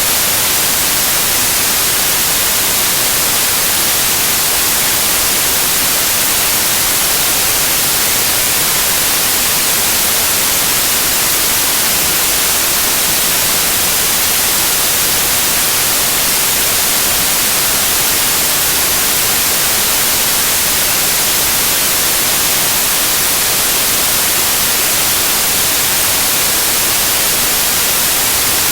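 Loud, steady white noise: an even, unchanging hiss, brightest in the treble.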